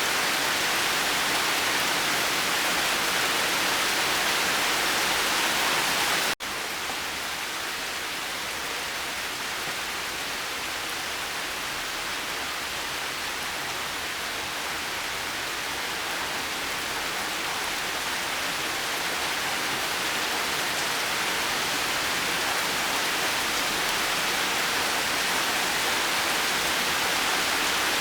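Steady heavy rain, an even hiss. About six seconds in it cuts out for an instant, then carries on slightly quieter and slowly grows louder again.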